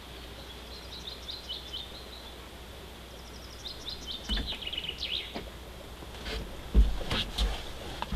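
Outdoor ambience with a steady hiss, where a songbird sings two short phrases of quick, high notes that fall in pitch. In the second half come several low thumps and clicks, the loudest a little over two-thirds of the way through.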